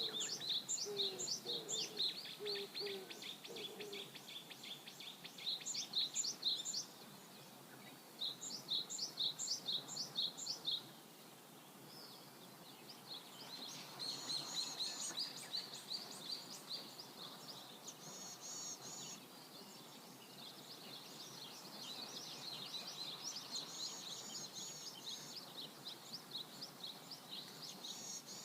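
Songbirds singing phrase after phrase of quick, high repeated notes and trills, with a brief lull partway through, over the faint steady rush of a river. A few lower short calls sound in the first seconds.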